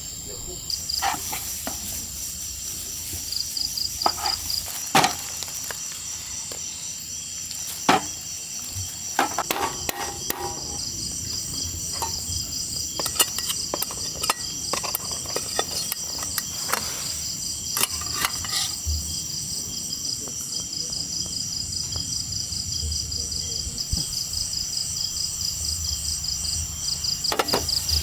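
A steady chorus of insects trilling in high, evenly pulsing tones. Scattered sharp knocks and clicks sound over it, the loudest about five and eight seconds in.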